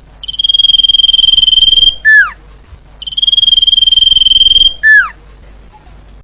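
Common iora (cipoh) singing: two long, steady, high whistles of about a second and a half each, each ending in a short note that slides downward.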